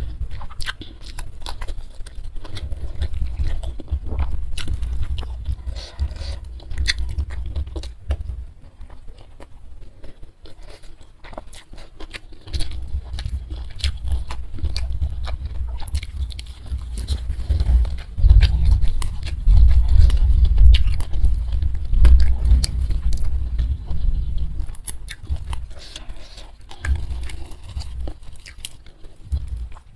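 Close-miked mukbang eating sounds: wet chewing and lip-smacking of rice, steamed fish and boiled leaves eaten by hand, with many small sharp mouth clicks and heavy low thuds that are loudest in the second half.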